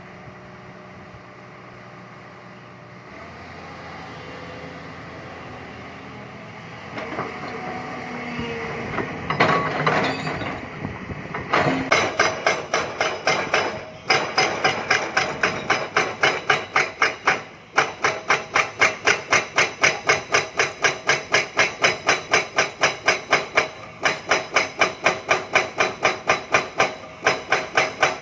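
Hydraulic rock breaker on an excavator hammering limestone: a fast, even run of sharp blows, about four a second, that pauses briefly a few times. Before it starts, about eleven seconds in, the machine runs with a mechanical noise that grows louder.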